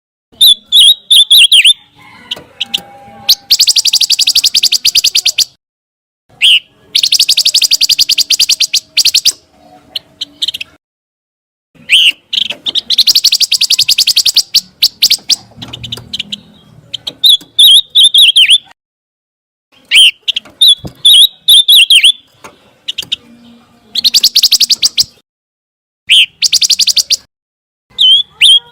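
The songbird known in Indonesian bird-keeping as pancawarna, singing: bouts of sharp, high chirps alternating with long, fast rattling trills, repeated with short pauses between phrases.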